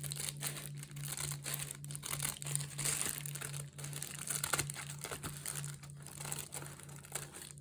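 Scissors cutting through a recycled Amazon mailer envelope, the envelope crinkling and crackling as it is snipped and handled.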